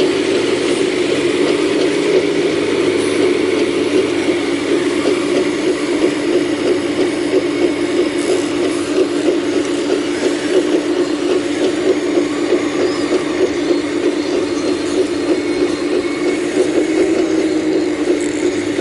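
Excavator engine running steadily under work, with a fast, even rattle.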